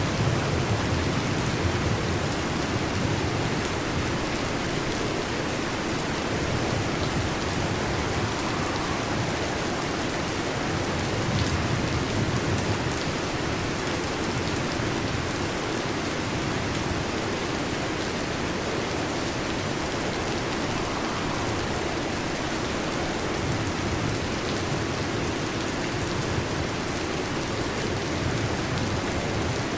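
Heavy rain falling steadily on a metal roof, with low rumbles of distant thunder swelling at the start and again about twelve seconds in.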